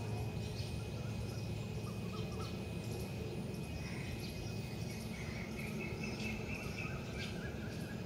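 Birds chirping faintly over a steady low background hum: a few short chirps about two seconds in, then a run of higher twittering from about four to seven seconds.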